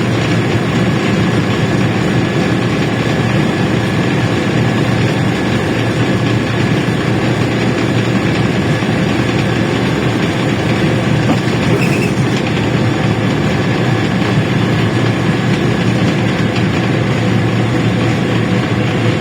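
LiAZ-677M bus under way, its V8 petrol engine running steadily under a constant haze of road and body noise.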